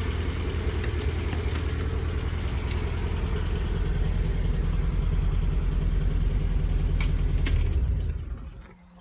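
1969 MGB GT's four-cylinder B-series engine idling steadily. A couple of sharp clicks come near the end, then the engine is switched off and runs down to a stop.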